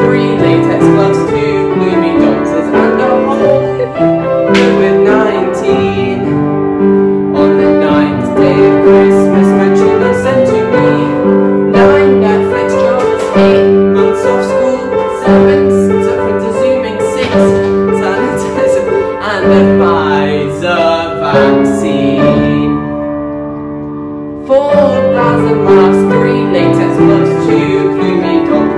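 Upright piano playing an instrumental tune in sustained chords and melody; the playing fades for a moment near the end, then comes back in strongly.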